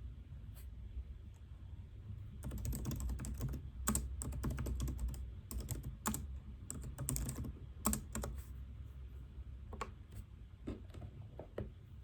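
Typing on a computer keyboard: quick runs of key clicks for several seconds, then a few scattered keystrokes, over a steady low hum.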